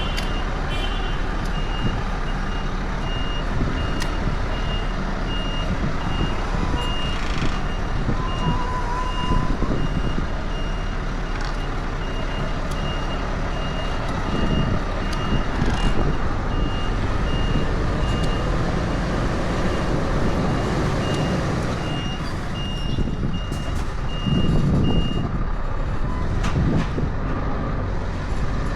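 A truck's reversing alarm beeping at an even rhythm over the steady running of its diesel engine; the beeping stops a few seconds before the end.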